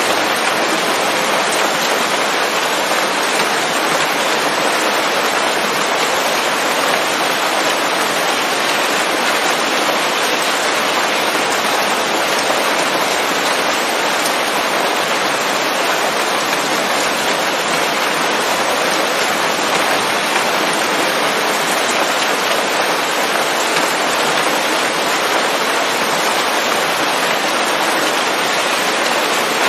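Steady rain falling on leaves in a forest, an even hiss without let-up.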